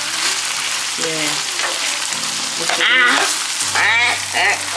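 Minced beef, onion and diced tomato sizzling in a frying pan as a metal spoon stirs them, a steady hiss throughout. A couple of short high-pitched vocal sounds come about three and four seconds in.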